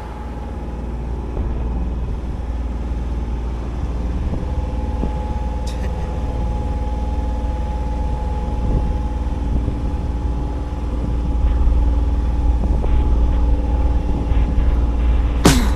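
An engine running steadily with a low rumble and a steady hum, getting somewhat louder in the last few seconds.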